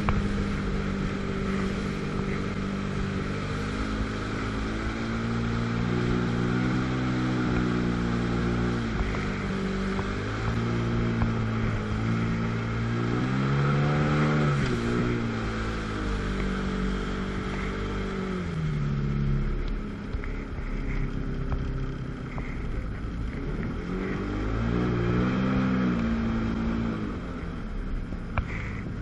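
Jet ski's two-stroke twin engine running under way, its pitch rising and falling as the throttle is worked, over rushing wind and water. The pitch climbs to a high peak about halfway through, drops off a few seconds later, and rises again briefly near the end.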